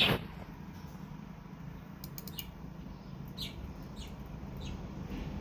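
Cockatiel giving short chirps: one loud falling chirp at the start, then several softer ones spaced about half a second to a second apart later on. A few quick clicks come about two seconds in.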